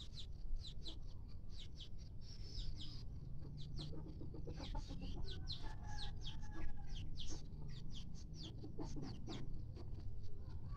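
Kampung chickens clucking, with many quick high chirps repeating throughout and a few short clucks around the middle.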